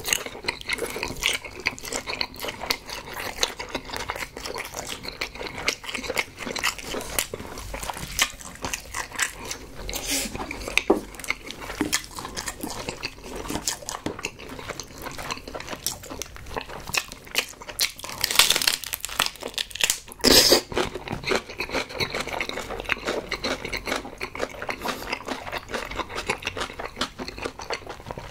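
Close-miked eating sounds: a steady run of wet chewing and smacking of a mouthful of boiled pork and kimchi. About two-thirds of the way through come two louder crunches, in keeping with bites into a crisp napa cabbage wrap.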